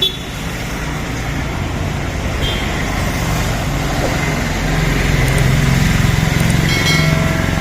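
A motorcycle engine running steadily along with road and wind noise, getting a little louder partway through.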